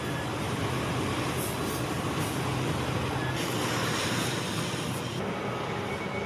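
Steady mechanical noise with a low hum, like running machinery.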